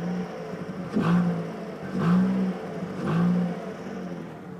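Mazda 3 engine at idle, revved three times in quick throttle blips about a second apart, each rising and falling back to idle. A little rattle comes with it, which the owner thinks may mean the exhaust needs fixing.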